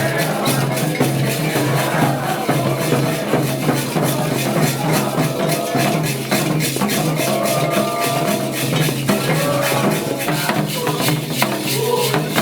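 Percussion music: drums with a fast, steady shaker rhythm.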